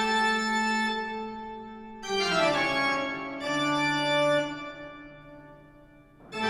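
Organ music: a few long held chords that change about two seconds and again about three and a half seconds in, then fade out near the end.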